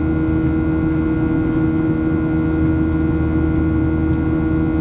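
Cabin noise inside a Boeing 737-800 in flight: the steady drone of its CFM56 jet engines and the airflow, with a steady hum.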